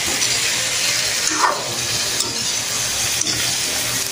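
Soy and oyster sauce sizzling and steaming in a hot pan of stir-fried vegetables and chicken liver, a steady hiss.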